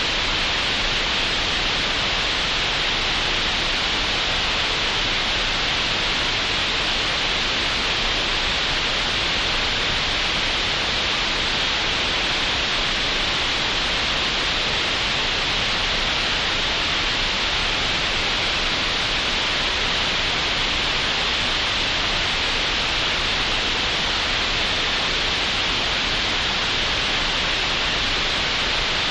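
Synthetic green noise generated in Audacity: a steady, unchanging hiss, strongest in the upper middle of the range and with no highest treble.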